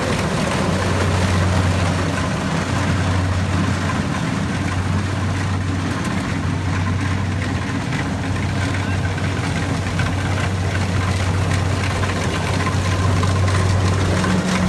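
Rice combine harvester running steadily: a constant low engine hum under a broad, even machine noise.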